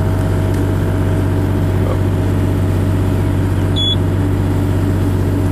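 Bobcat E32 mini excavator's diesel engine running at a steady, unchanging pitch.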